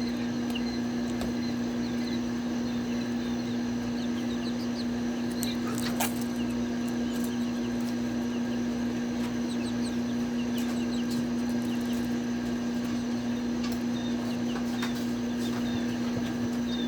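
Young chicks peeping in short, high chirps scattered throughout, over a loud, steady low hum. There is a single sharp knock about six seconds in.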